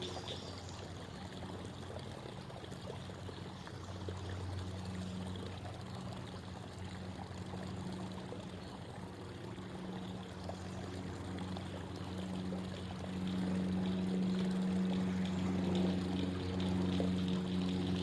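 Creek water babbling and trickling, with a low steady hum underneath that grows louder about two-thirds of the way through.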